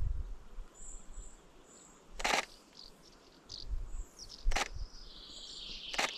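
Small birds giving short, high chirps, faint against the outdoor background, with three brief sharp clicks about two seconds apart.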